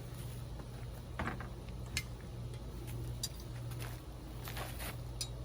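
A handful of light clicks and knocks, spaced irregularly, from things being handled during the hive work, over a steady low hum.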